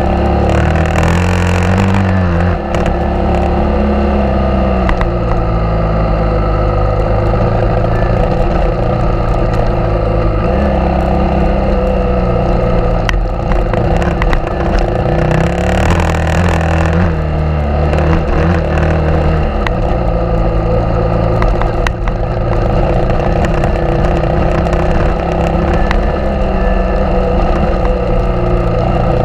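Suzuki DR650 single-cylinder engine running under way on a dirt road, its pitch rising and falling in steps with throttle and gear changes. Brief bursts of noise about a second in and around sixteen seconds.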